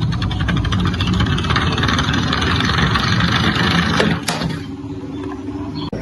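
Engine sound with a rapid pulsing beat, running for about four seconds, then a sharp click and a quieter stretch to the end.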